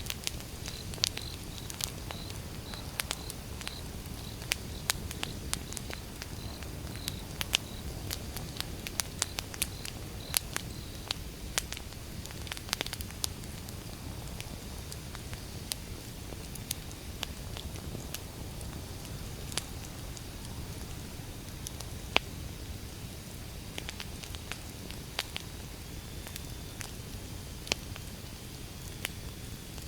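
Outdoor wood fire burning: sharp crackles and pops from the logs over a low steady rumble, the crackles coming thick in the first half and thinning out later. A faint, evenly repeated high chirp sounds through the first several seconds.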